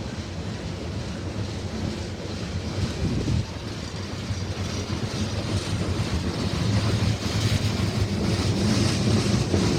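Train approaching on the Norfolk Southern line, its diesel locomotives a steady low rumble that grows louder, with rising rail and wheel hiss near the end.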